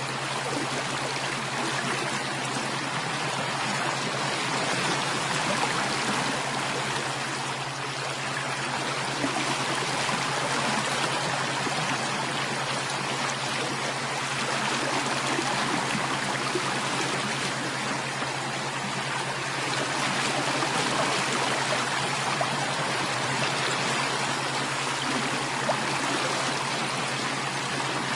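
Running water of a stream, flowing and trickling steadily.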